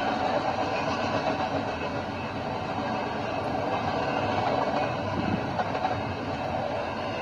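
BNSF intermodal freight train rolling past, a steady, continuous noise of wheels on rail.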